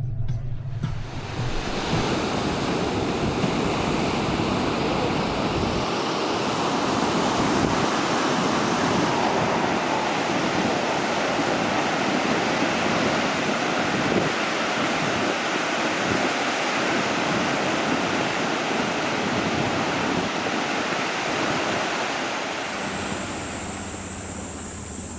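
Steady, even rush of water, which eases a little near the end as a high insect buzz comes in.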